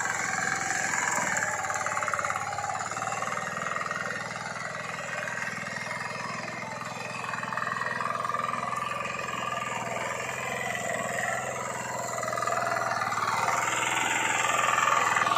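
Mini tractor's small engine running steadily as the tractor is driven, getting louder over the last couple of seconds.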